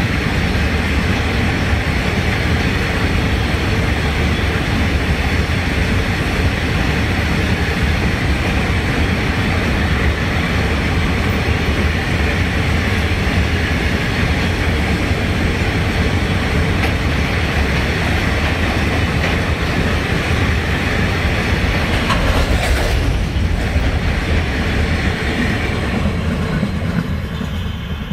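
Empty open freight wagons of a long train rolling past at close range: a steady loud rumble of steel wheels on the rails, with one sharp knock late on. The sound fades near the end as the last wagon passes.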